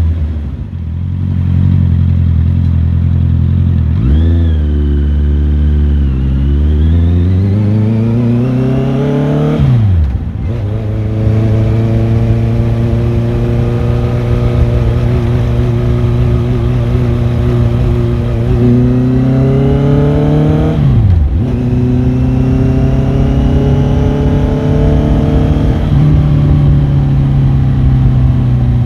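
Motorcycle engine pulling through the gears on the road, its pitch climbing steadily and then dropping sharply at upshifts about ten and twenty-one seconds in.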